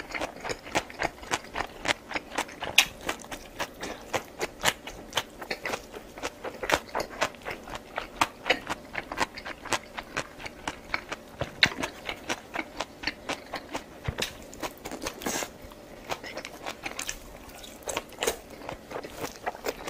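A person eating close to the microphone: steady chewing and biting with sharp wet mouth clicks, two or three a second.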